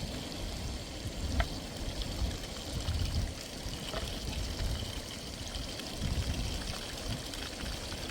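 Running water, with a couple of sharp clicks.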